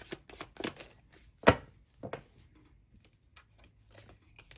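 Tarot cards being handled on a table: a run of light clicks, a sharp knock about a second and a half in and a second one shortly after, then a few faint ticks.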